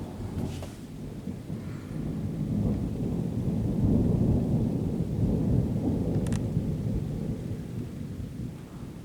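Rolling thunder from a nearby thunderstorm, a deep rumble that swells to a peak about four seconds in and then slowly fades, with rain falling throughout. A single sharp tick sounds about six seconds in.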